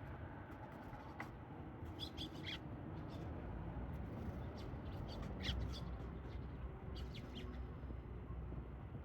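Tree sparrows chirping: short, high chirps in small scattered clusters over a steady low background rumble.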